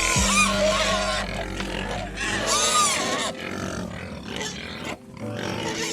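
An animal calling several times, with calls that rise and fall in pitch, over a low steady hum that fades out partway through.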